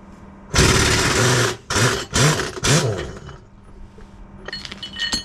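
Impact wrench running on track bolts: one long burst, then three short bursts, each whirring up and down in pitch. Light metallic clinks of bolts or sockets follow near the end.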